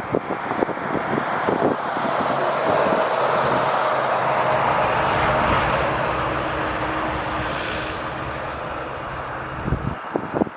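Jet engines of a Boeing 787-9 Dreamliner passing by: a broad roar with a steady whine in it that swells to its loudest mid-way and then fades. Gusts of wind buffet the microphone at the start and near the end.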